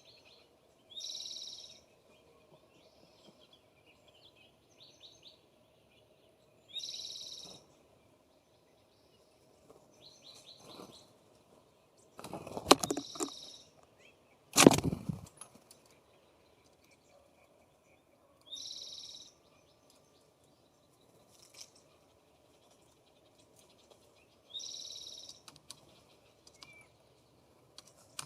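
A bird at a feeder repeating a short, harsh, high call about four times, several seconds apart. About halfway through come two loud knocks.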